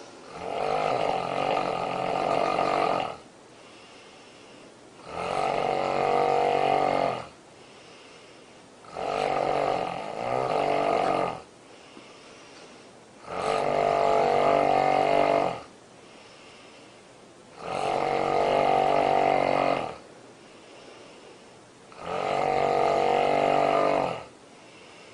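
A woman snoring loudly and rhythmically: six long, pitched snores of about two seconds each, roughly every four seconds, with quieter breathing gaps between them.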